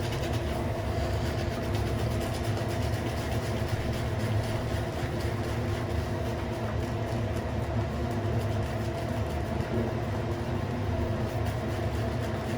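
Steady low mechanical hum with several constant tones, unchanging throughout.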